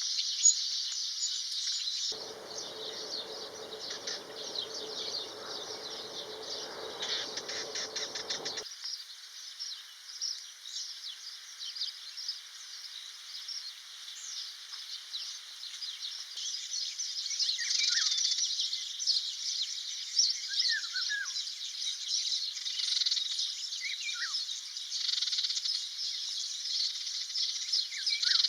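A steady, high-pitched insect chorus, with a young common cuckoo's short begging calls repeating in the second half. A low hum with a steady tone runs for several seconds near the start.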